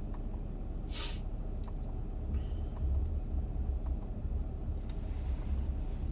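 Dodge Grand Caravan minivan idling, heard from inside the cabin as a steady low rumble. There is a brief hiss about a second in and a few faint ticks.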